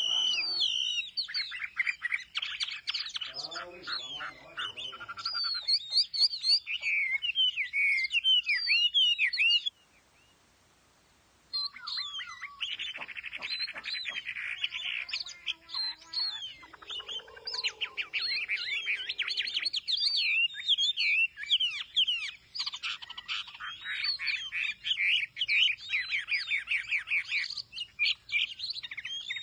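Chinese hwamei singing a long, varied song of rapid whistles, slurred notes and fast trills, breaking off for about two seconds near the middle before going on.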